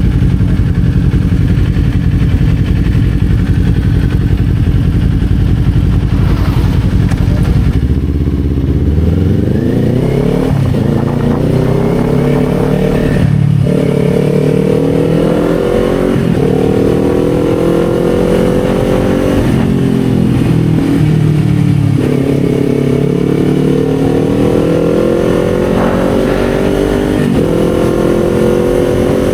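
Kawasaki Z400's parallel-twin engine running low and steady, then pulling away about eight seconds in. It revs up through the gears, the pitch rising and dropping back at each upshift. A little past the middle it eases off, then accelerates again.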